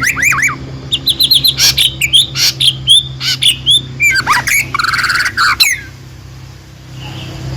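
A songbird singing loud, rapid phrases of sharp chirps and quick whistled notes, stopping about three-quarters of the way through. A steady low hum runs underneath.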